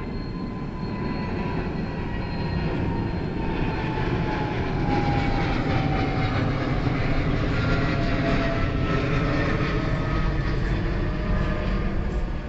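Boeing 777's twin jet engines at takeoff power: a loud, steady rumble that grows louder over the first few seconds, with whining tones slowly falling in pitch as the airliner goes by.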